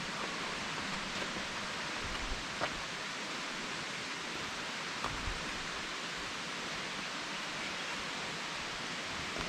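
Steady rushing of a waterfall, with a few faint clicks and low bumps scattered through it.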